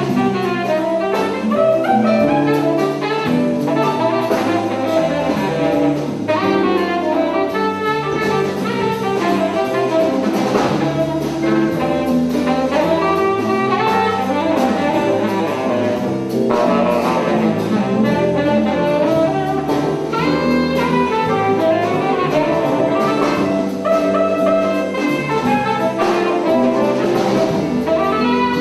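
Jazz ensemble playing, with vibraphone and horns over a drum kit.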